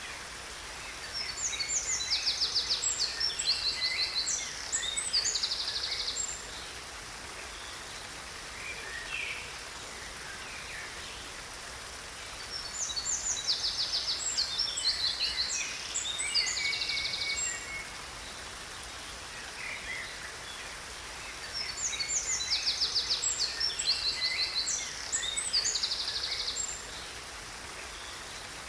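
A songbird singing three long bouts of rapid, high trilling phrases, about ten seconds apart, over the steady hiss of a waterfall.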